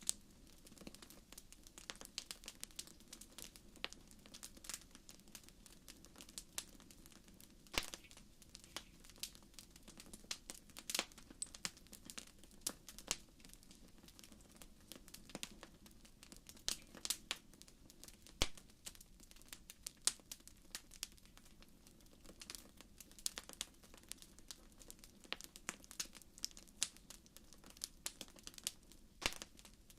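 Wood fire burning in a fireplace, crackling with frequent irregular sharp pops and snaps over a faint steady hum.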